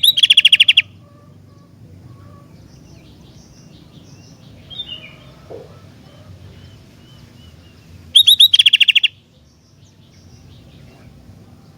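Sooty-headed bulbul (kutilang) giving two loud bursts of rapid, evenly repeated notes: one at the start and one about eight seconds in, each under a second long. Softer, scattered calls come in between.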